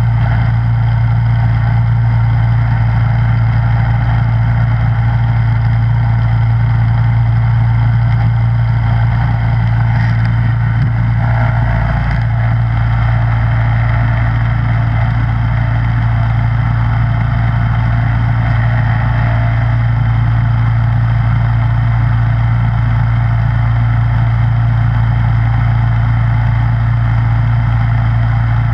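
Snowblower's small gasoline engine running steadily at a constant loud drone, with a slight shift in tone about twelve seconds in.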